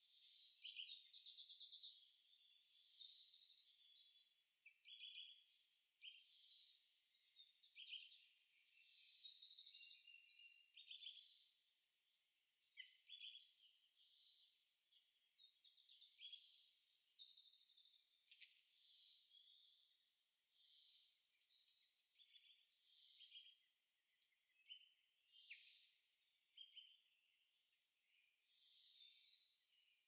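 Songbirds singing, a stream of fast trilled phrases and short chirps. The song is loudest through the first ten seconds or so and grows fainter and sparser toward the end.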